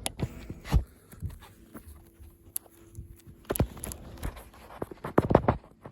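Irregular sharp taps and knocks with light rustling, ending in a quick cluster of louder knocks near the end.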